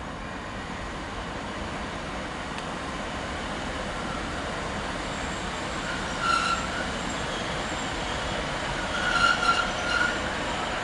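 A passenger train approaches, its running noise growing steadily louder, with its wheels squealing against the rails in short high squeals about six seconds in and again around nine to ten seconds.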